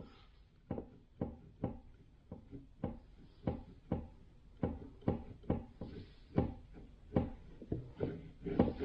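Light knocks, about two a second, from a rebuilt FJ40 Toyota Land Cruiser steering box as its shaft is worked back and forth, taking up the little play left in a bearing.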